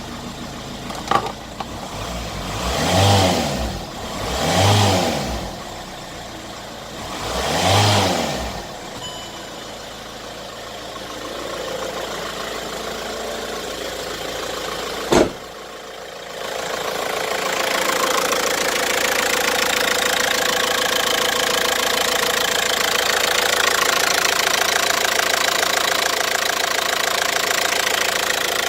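Car engine idling, revved three times in the first several seconds, each rev rising and falling back to idle. About halfway through there is a single sharp click, and after it the engine runs on louder and noisier.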